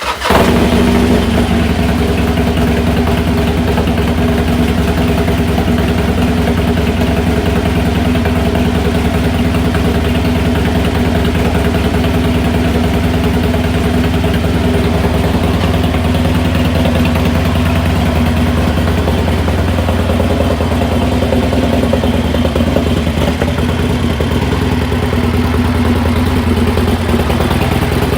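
Harley-Davidson Sportster Iron 883's air-cooled V-twin, freshly converted to 1200cc with an S&S Hooligan big-bore kit, starting abruptly at the beginning and then idling steadily, not yet run in.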